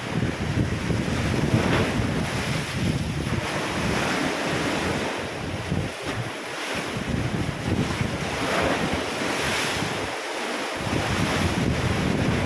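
Ocean waves splashing and washing in, swelling every few seconds, with wind buffeting the microphone in a low rumble that drops out briefly twice.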